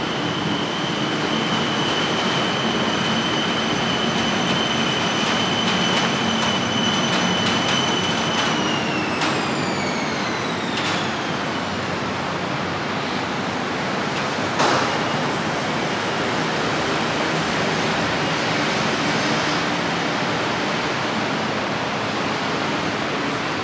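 BTS Skytrain electric train running, with a steady high whine over rolling noise. The whine slides down in pitch about nine seconds in as the train slows. A single sharp clunk comes about fifteen seconds in.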